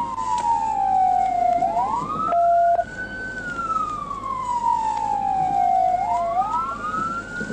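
Two emergency-vehicle sirens wailing slightly out of step, each rising quickly in pitch and then falling slowly in a cycle of about four seconds, with a short steady tone for about half a second between the first two rises.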